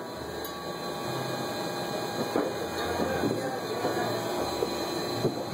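Many distant fireworks and firecrackers going off at once, a continuous crackle of small pops with no single big bang standing out.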